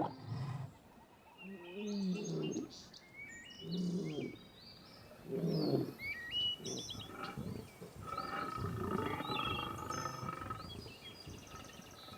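Male lion roaring to proclaim its territory: three deep, moaning roars about two seconds apart, then quieter low calls. Birds chirp throughout.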